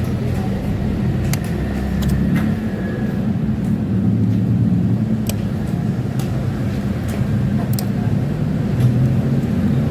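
Yamaha Lexi 125 scooter's single-cylinder engine idling at too low an idle speed, which the mechanic suspects could come from a dirty idle speed control (ISC) valve or throttle body. A few sharp ticks sound over it.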